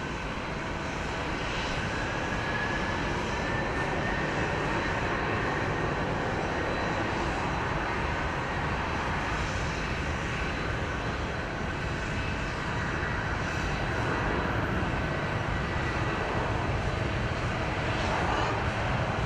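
Jet airliner engines running, a steady roar with a faint whine that rises slightly a couple of seconds in.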